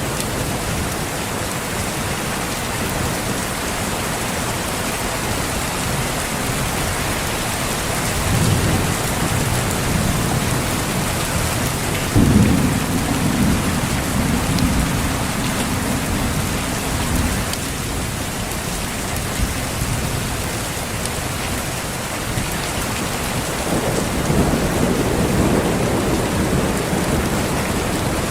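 Steady heavy rain with rolls of thunder: a low rumble swells about eight seconds in, a stronger one cracks in sharply around twelve seconds and rolls on for several seconds, and another rumbles near the end.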